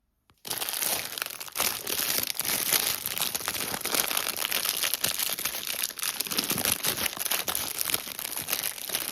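Continuous crinkling and crackling, like a crinkly material such as packaging being handled, starting about half a second in.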